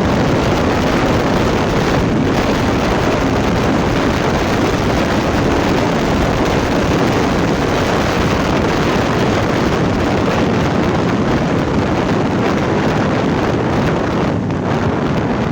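Steady wind noise on the microphone during a motorcycle ride, with the road and engine sound of the moving bike mixed in.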